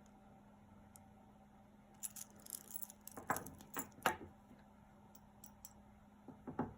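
Jewelry beads of glass and stone clicking and rattling together as a beaded necklace is handled, in a cluster of short clinks about two to four seconds in and a couple more near the end.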